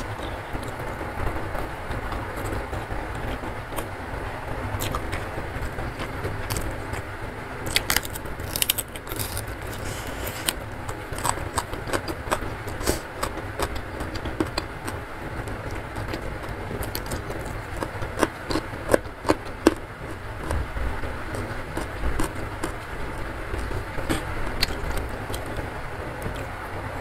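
Close-up eating sounds of a meal of rice, stir-fried beef and vegetables eaten by hand: wet chewing and lip smacks with scattered sharp crunchy clicks, the loudest clusters about eight seconds in and again near nineteen seconds, over a steady noisy background.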